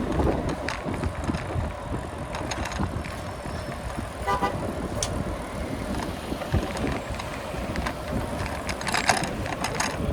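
Steady wind and road noise of a bicycle ride on a city street, with scattered clicks and a short horn toot about four seconds in.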